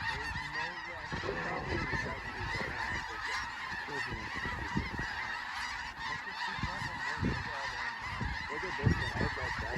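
A huge flock of snow geese calling nonstop, a dense, unbroken chorus of honks.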